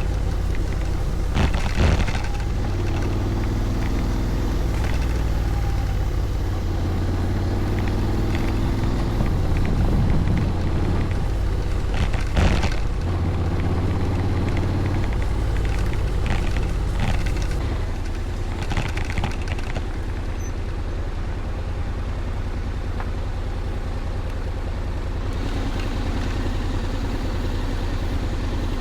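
Honda Forza 750 parallel-twin engine running under way, its pitch shifting in steps, with wind noise and a few sharp knocks; it settles to a steadier, slightly quieter note past the middle.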